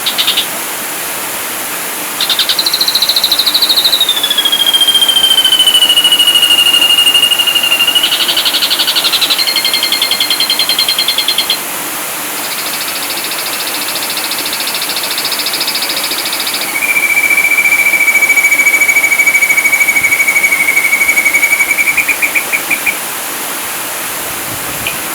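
Ashy drongo singing: a falling whistle, then fast buzzy rattling trills, then a long steady whistle that breaks into a quick stutter near the end. A steady hiss runs underneath.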